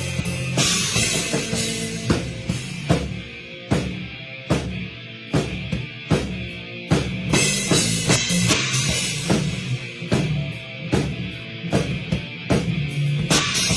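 Rock band playing, the drum kit loudest: kick and snare keep a steady beat under bass, with cymbal crashes near the start and again near the end.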